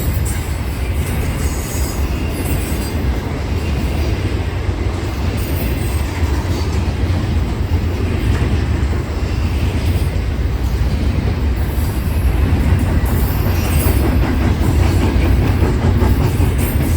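Intermodal freight train cars rolling past with a steady, loud rumble of wheels on rails, with brief faint high squeals from the wheels.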